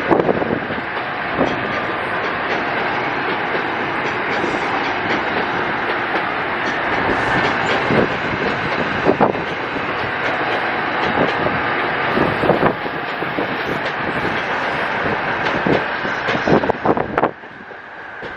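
NJ Transit Arrow III electric multiple-unit train passing close by, a steady rush of wheel and rail noise with frequent wheel clacks over rail joints. The noise drops off sharply near the end as the last car goes by.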